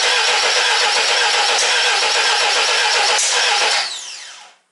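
Starter motor cranking a freshly rebuilt Niva engine in a VAZ Zhiguli, steady and rhythmic, without the engine catching. Near the end it is released, and the starter's whine falls away as it spins down. It is a failed start that the men put down to the ignition not being set right.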